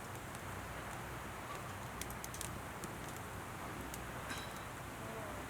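Wood campfire burning with a steady hiss and a few sharp crackles, a small cluster about two seconds in and one more near four seconds.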